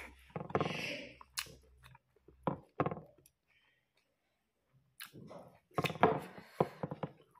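A person chewing and smacking a mouthful of rice and chicken close to the microphone, in a few short spells with a quiet pause in the middle.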